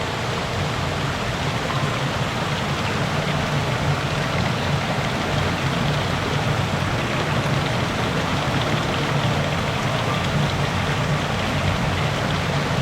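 Spring water flowing and splashing down a small fall in a steady, unbroken rush.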